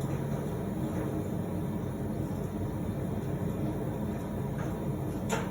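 Blacksmith's forge running with a steady rushing noise while a steel stem heats in the fire, with a light click near the end.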